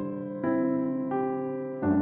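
Slow, gentle electric piano music playing a praise-hymn melody, with a new held note or chord about every half second to a second.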